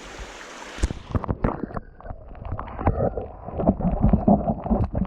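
Rushing water heard through a camera's microphone held underwater. The sound turns suddenly muffled about a second in, as the camera goes under, then runs on as a dull water rumble with many irregular knocks and bumps.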